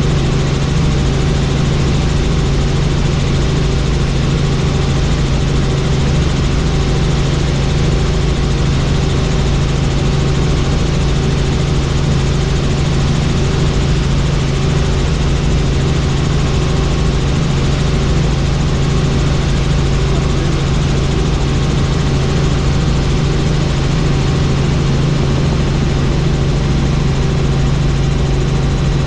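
Helicopter in flight, heard from aboard: a loud, steady drone of engine and rotors that holds unchanged throughout.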